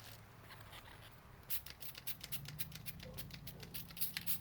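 Spray bottle of ceramic quick detailer being shaken, its contents rattling and sloshing in a quick run of short strokes, about five a second, starting about a second and a half in.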